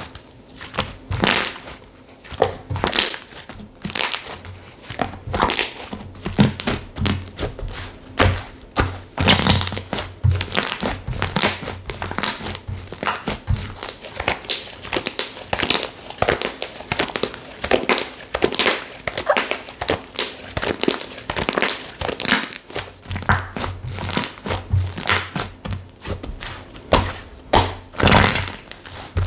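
Slime being squished and kneaded by hand, giving a dense, irregular run of crackling clicks and pops.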